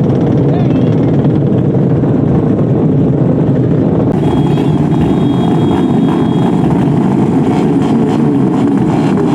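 Racing motorcycle engine noise, loud and continuous.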